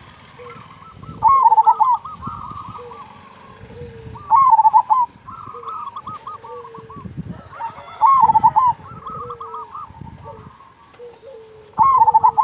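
Zebra doves (perkutut) cooing: a loud, quickly wavering phrase comes four times, about every three and a half seconds, with softer cooing notes in between.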